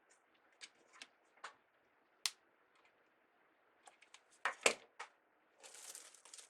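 Scattered light clicks and taps of small craft pieces being handled, with a louder double knock a little past the middle, then soft rustling near the end.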